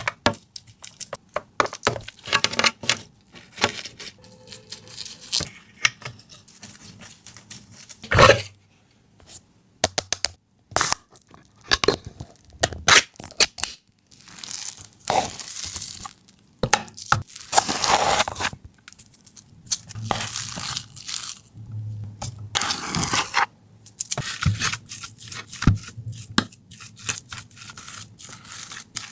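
Hand food-preparation sounds in a kitchen: irregular sharp clicks and knocks mixed with several rough, noisy passages about a second long.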